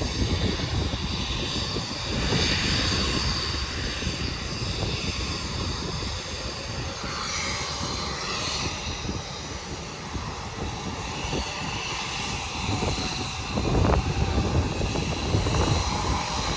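Embraer E175's turbofan engines idling, a steady high whine of several tones, under heavy wind rumble on the microphone that gusts up near the end.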